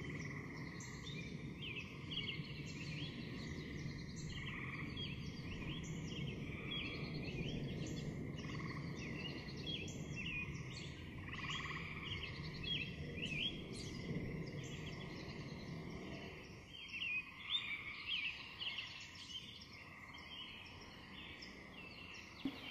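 Small birds chirping, many short rising and falling calls, over a low steady background noise. The background drops away about two thirds of the way through, leaving sparser chirps.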